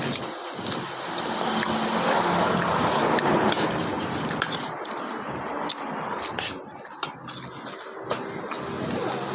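A motor vehicle running close by, swelling in level over the first few seconds, with scattered small clicks.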